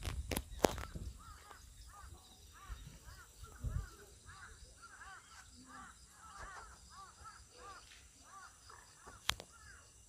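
Birds calling in the background: a long run of short calls that rise and fall in pitch, several a second. Rustling and sharp clicks from handling come in the first second, and a single sharp click comes near the end.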